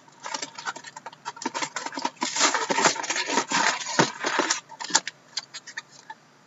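Trading card packs being torn open and the cards handled: a dense run of crinkling and clicking that thins out after about five seconds.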